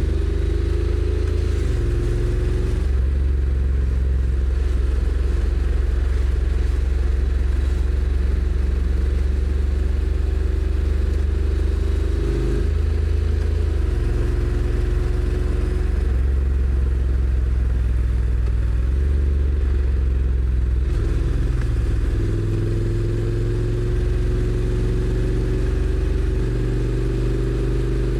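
Honda NC750X's parallel-twin engine running on the move, recorded from the rider's seat. Its note climbs slowly and drops sharply three times, about a second and a half, twelve and a half and twenty-one seconds in, before climbing again near the end.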